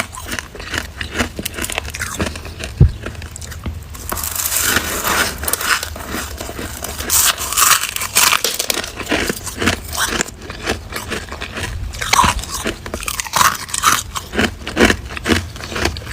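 Close-up biting and chewing of freezer frost: a dense, irregular run of crisp crunches, with one sharper, louder knock about three seconds in.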